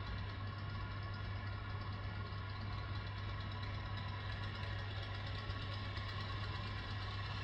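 A steady, unchanging low hum with a few faint steady tones above it, like a machine running at a constant speed.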